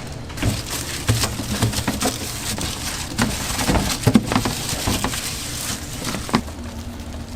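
Irregular clicks, taps and knocks of hands-on work at a donut-making counter.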